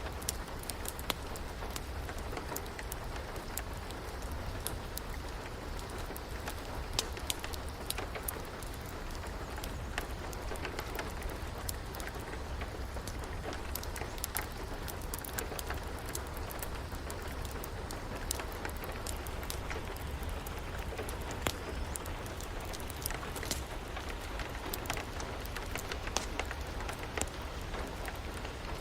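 Steady rain mixed with a crackling wood fire: a constant hiss with a low rumble underneath, and frequent sharp pops and clicks scattered throughout.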